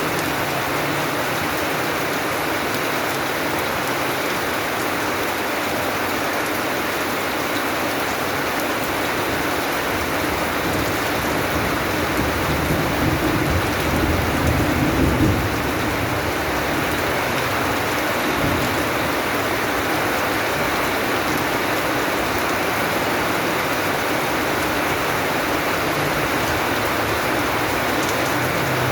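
Steady rain falling, an even hiss of drops on surfaces. A low thunder rumble swells about halfway through and fades after a few seconds.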